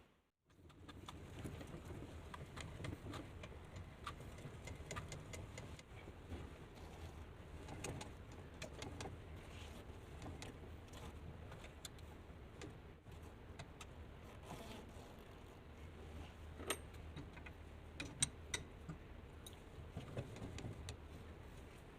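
Light metallic clicks and clinks of small metal parts being handled, scattered over a low steady hum, with a few sharper clicks near the end.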